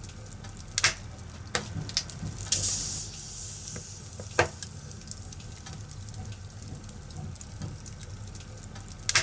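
Wood fire crackling: a few sharp, irregular pops over a low steady rumble, with a brief hissing surge about two and a half seconds in.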